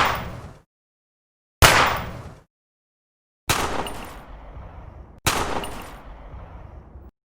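Gunshot sound effect: three separate single shots, each sudden and dying away, about two seconds apart, the last two ringing on longer.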